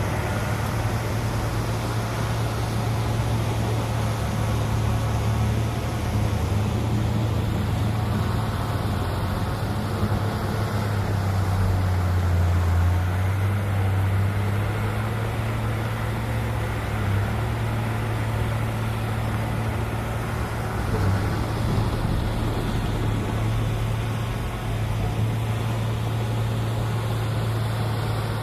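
Heavy diesel engine of earthmoving machinery running steadily under load, with a deep engine hum and a slight swell about ten seconds in.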